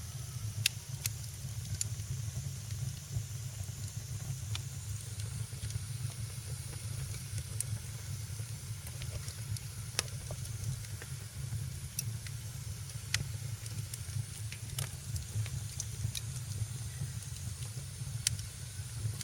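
Wood fire in a fireplace crackling: sharp pops scattered a second or two apart over a steady low rumble and soft hiss.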